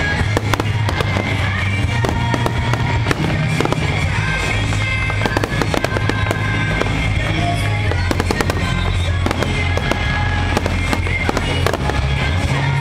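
A fireworks barrage: aerial shells bursting in rapid, overlapping bangs and crackles, with music playing underneath.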